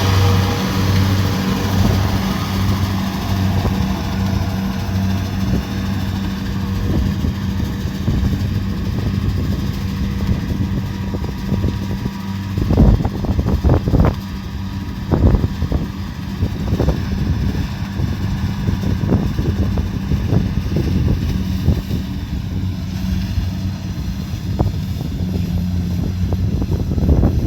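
Kubota DC70 Pro combine harvester running steadily, its engine giving a constant low hum. A cluster of sharp knocks and thumps comes about halfway through, with a few lighter ones later.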